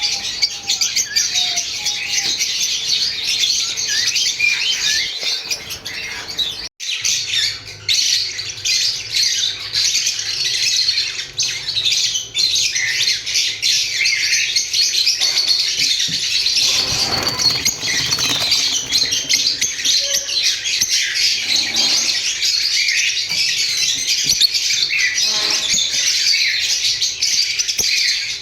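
Lovebirds chattering: a dense, continuous mass of shrill chirps and squawks, with a brief break about seven seconds in.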